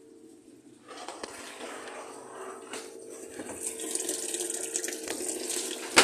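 Water running, as from a tap or a washing machine filling, starting about a second in and growing louder, over a steady hum, with one sharp knock at the very end.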